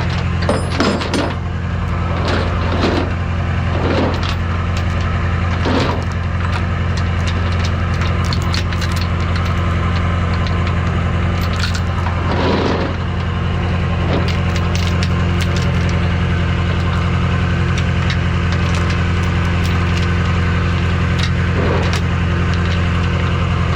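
Rollback tow truck's engine idling steadily, with scattered metal clanks and knocks from tie-down chains being hooked and tightened on the bed, most of them in the first few seconds and a few more later.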